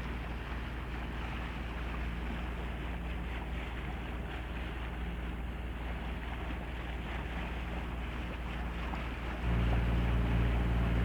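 Sailing yacht motoring under its inboard engine: a steady rush of water and wind noise with the engine faint underneath. About nine seconds in, the engine's steady low drone comes up clearly louder.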